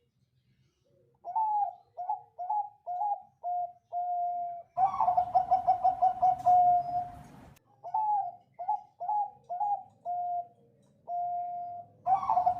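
Zebra dove (perkutut) singing twice. Each song is a few short cooing notes, then one longer held coo, then a fast stuttering run of coos, which is the loudest part. The second run starts near the end.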